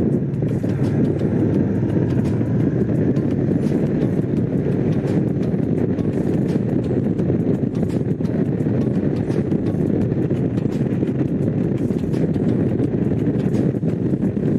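Honda CX500's liquid-cooled V-twin engine running at a steady cruise while the motorcycle is ridden.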